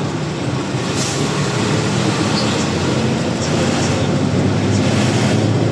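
Truck engine running with road noise heard from inside the cab while driving, steady and loud, with a brief hiss about a second in and again near the end.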